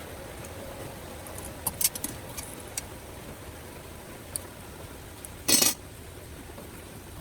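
Light, sharp clicks and clinks from small hard parts being handled, a quick cluster of them followed by a single one, then one short, louder scrape about five and a half seconds in.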